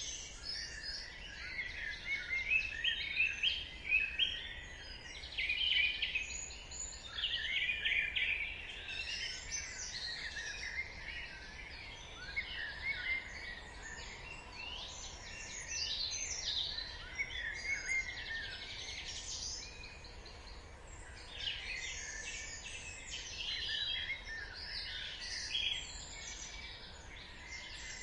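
Dawn chorus: many songbirds chirping and trilling at once, call overlapping call, with no pause.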